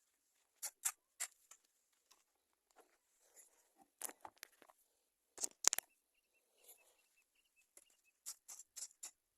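Hoe chopping and scraping weeds out of bare dirt: faint, irregular sharp strikes, mostly in quick runs of two or three, the hardest a little over five and a half seconds in.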